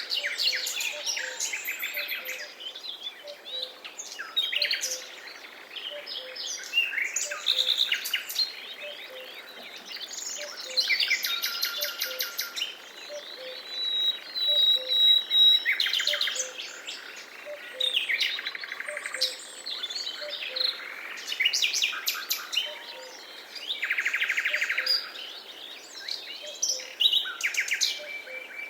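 Forest birdsong: several birds chirping and trilling in overlapping calls, one holding a whistled note about halfway through, over a faint steady rhythm of soft low notes.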